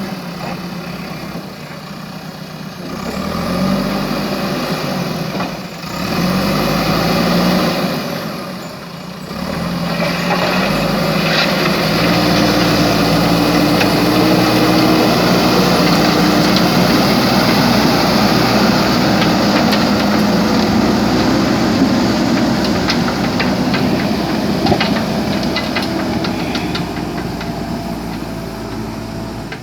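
JCB backhoe loader's diesel engine running under working load, its pitch rising and dropping several times, then holding louder and steadier from about ten seconds in, with light rattling clicks over it.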